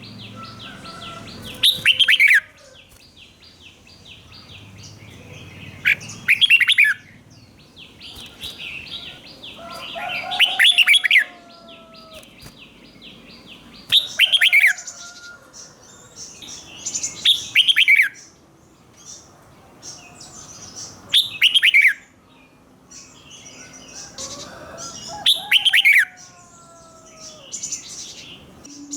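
Red-whiskered bulbul singing a short, loud, quick-falling song phrase over and over, about every four seconds. A fast, high ticking trill runs underneath for long stretches between the phrases.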